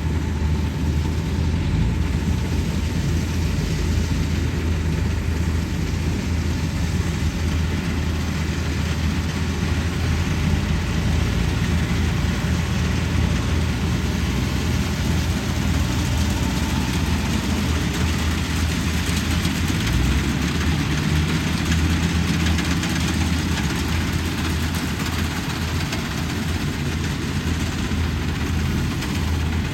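Diesel engine of a Kubota 105 combine harvester running steadily. Its note shifts up slightly about two-thirds of the way through.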